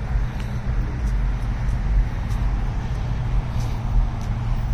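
Car engines running as vehicles roll in slowly, a steady low rumble.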